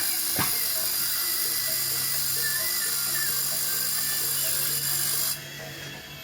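Small electric power tool running steadily with a high whine, cutting off suddenly about five seconds in, over background music.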